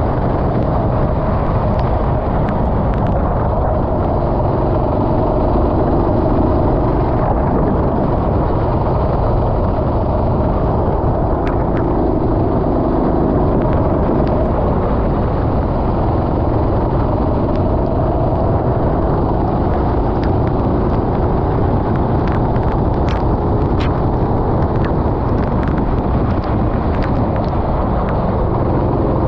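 Racing kart engine heard onboard at race pace, its note rising and falling with the throttle through the corners, over a constant low rushing noise, with sharp clicks and knocks coming now and then, more of them near the end.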